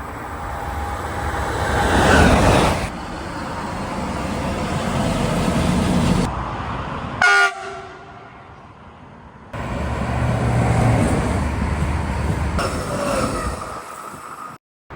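Electric trains passing at speed on a mainline, in clips joined by abrupt cuts. About seven seconds in comes one short, loud blast of a locomotive horn.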